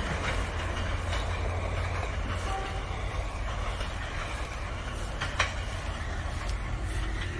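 Train running along the track: a steady low rumble under a wash of wheel-and-rail noise, with one sharp knock about five seconds in.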